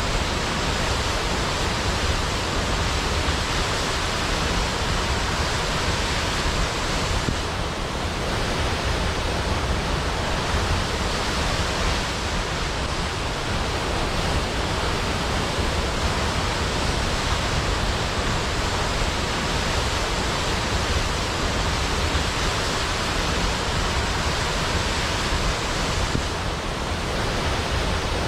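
Large waterfall: water falling in a steady, even rush.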